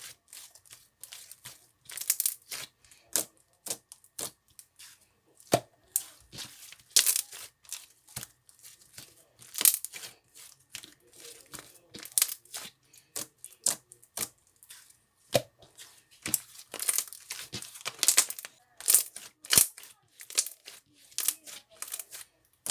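Marbled slime being squeezed and stretched by hand: irregular, sticky crackling and popping, with a few sharper clicks.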